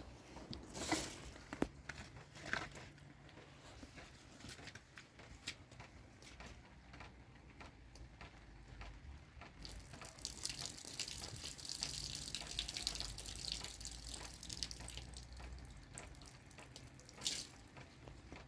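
A few knocks and clatters, then water poured or running for about six seconds, as when filling or rinsing a pot, ending in a single clank.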